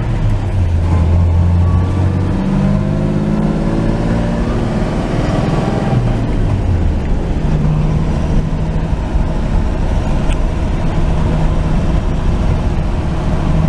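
1949 Chevrolet truck engine running while driving, with road noise. Its pitch climbs over the first few seconds, changes around the middle, then holds a steady drone.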